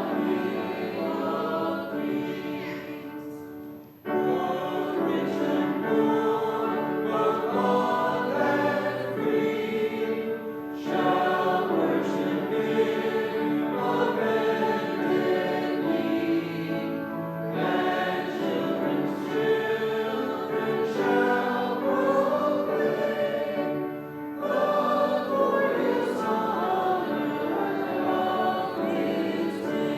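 Church congregation singing a hymn together, in long phrases with a short break between lines about every six or seven seconds.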